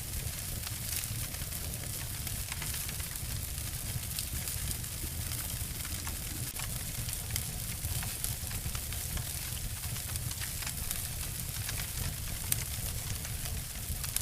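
Wood fire crackling and snapping: a steady hiss dotted with frequent small pops, with one louder snap near the end.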